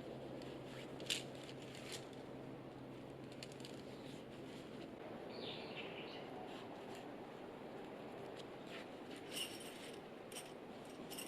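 A few sharp light clicks and clinks of camping gear being handled while packing up, the loudest about a second in and a pair near the end. A bird calls briefly about five seconds in, over steady outdoor background noise.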